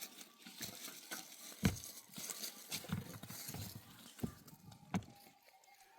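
Scattered knocks and light rustling, the loudest knock about one and a half seconds in and two more near the end.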